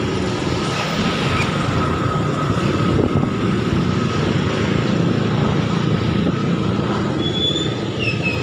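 Steady road-vehicle noise heard while riding: engine and road rumble with a faint steady whine, and a couple of short high squeaks near the end.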